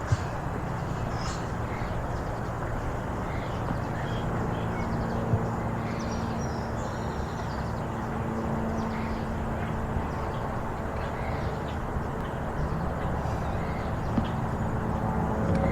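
Outdoor ambience: a steady low hum of distant engines under a noisy background, with small birds chirping now and then. A deeper rumble starts building near the end.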